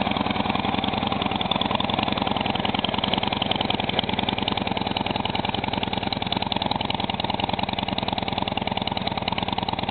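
2011 Harley-Davidson Dyna Wide Glide's air-cooled V-twin idling steadily through its stock exhaust pipes, an even beat that holds the same pace throughout.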